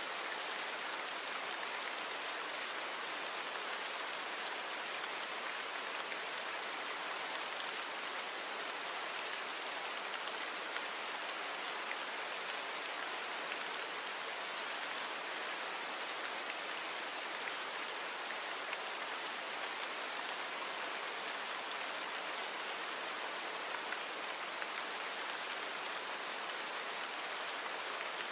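Steady rain falling, a dense even hiss of drops with faint individual patters. The recording has been noise-reduced.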